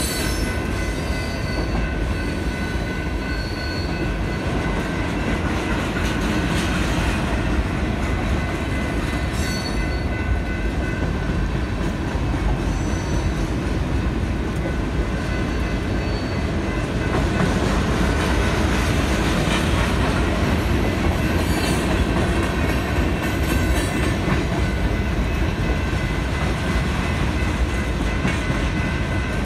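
Freight train cars rolling steadily past over a grade crossing: a continuous rumble and clatter of wheels on the rails, with brief high wheel squeals now and then.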